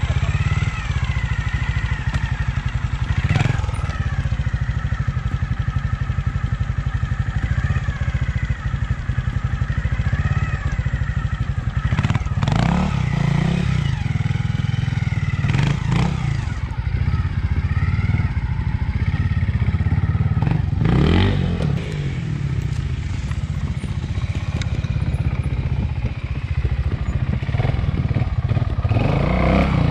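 Trials motorcycle engine running at low revs on the throttle, its pitch wavering, with about five short sharp blips and knocks spread through the stretch, as used for rear-wheel hops through a section.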